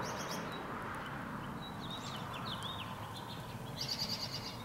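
Small birds chirping, with a few short high calls that glide in pitch and a quick run of chirps near the end, over steady outdoor background noise.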